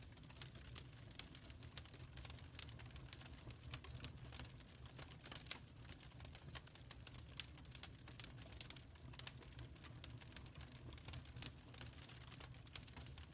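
Wood fire in a firepit crackling, with irregular sharp pops and ticks over a low steady rumble.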